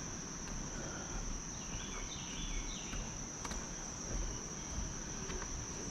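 Steady, unbroken high-pitched insect chorus of late-summer crickets, over a low rumble.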